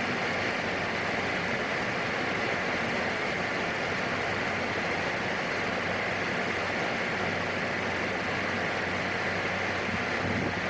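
Steady in-flight cabin drone of a PAC 750XL's single turboprop engine and slipstream, an even hiss with a low hum underneath, unchanging throughout.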